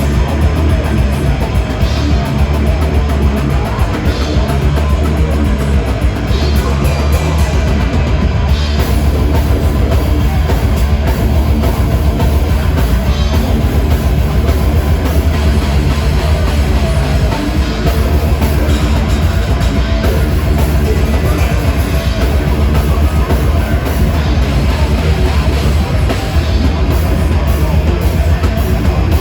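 Heavy metal band playing live at loud, steady volume: distorted electric guitars, a heavy bass low end and a pounding drum kit, with no vocals.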